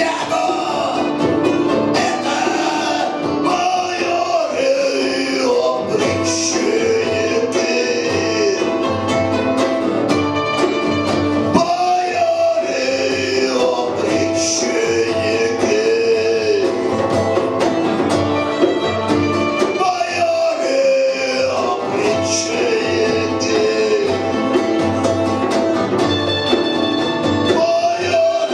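A punk rock band playing live: drums and guitars under a melodic lead line that bends in pitch in long phrases.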